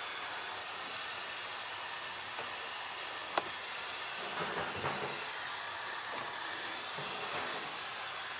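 Heat gun blowing with a steady hiss. A single sharp click comes about three and a half seconds in, followed by a few soft knocks a second later.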